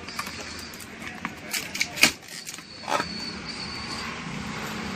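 A handful of sharp clicks and knocks, the loudest about two seconds in, over a steady low background noise.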